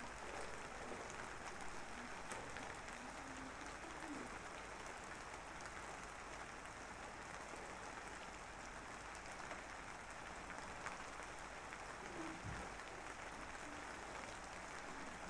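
A steady, even hiss of rain-like noise with faint scattered crackles, running without a break.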